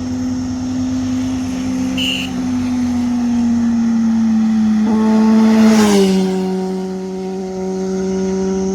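Vehicle engine running at a steady pitch, passing close about six seconds in with a whoosh as its pitch drops, then running on steadily at the lower pitch.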